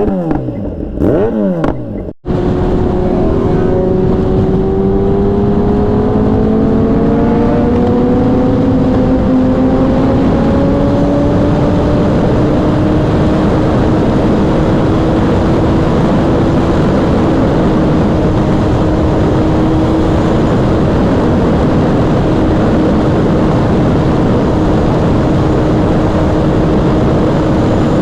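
Motorcycle engine revving up and down a few times, then after a sudden cut a long steady run at speed: the engine note climbs slowly in pitch and then holds steady under a loud, even rush of wind and road noise.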